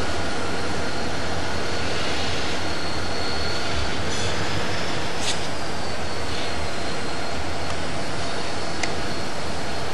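Union Pacific freight train's boxcars and caboose rolling away over the rails with a steady rumble of wheels, broken by a couple of sharp clicks, one about halfway and one near the end.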